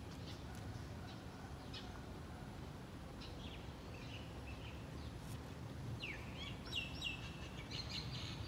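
Birds chirping over a low, steady outdoor background rumble. The short high calls, including one falling note, come mostly in the second half.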